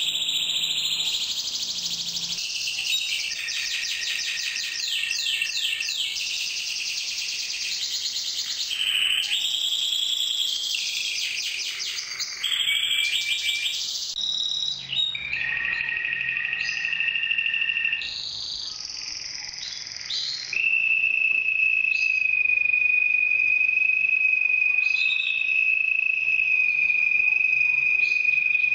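Red mosaic canary singing: a dense run of fast, varied trills for about the first half, then shorter held phrases, and for the last third one long, steady high trill.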